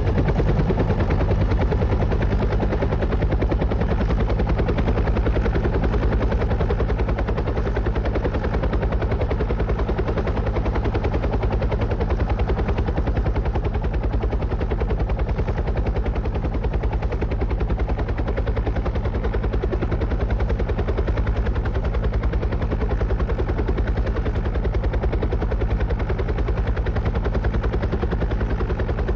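Helicopter rotor blades chopping in a fast, steady beat over a low, even drone.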